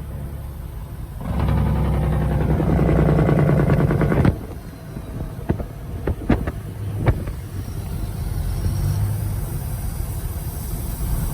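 Diesel engine of a 1974 Kenworth W900 semi truck with straight stacks and no mufflers, running loud for about three seconds, then dropping abruptly to a lower, steady idle-like drone. A few sharp clicks or knocks come in the middle.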